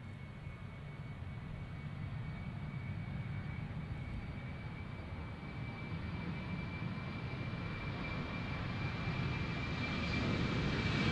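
Jet airliner's engines growing steadily louder as it approaches, a low rumble with a steady high whine over it.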